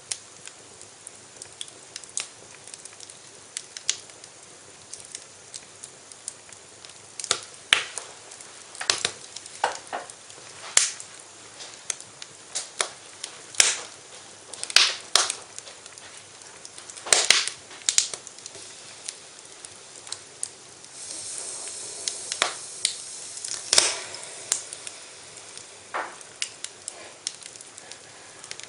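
Wood fire in a fireplace crackling, with irregular sharp pops and a short stretch of hissing about three quarters of the way through.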